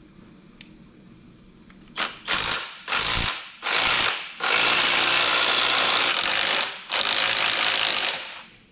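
A 3/8-inch drive hand ratchet with a swivel socket clicking as it backs a bolt out of a winch. A few short strokes start about two seconds in, then longer runs of fast ratcheting stop shortly before the end.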